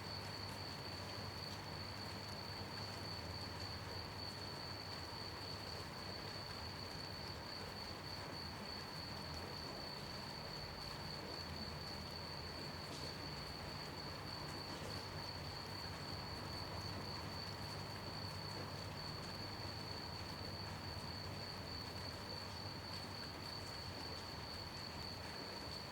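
Crickets chirping in a steady, continuous high trill over light, gentle rain.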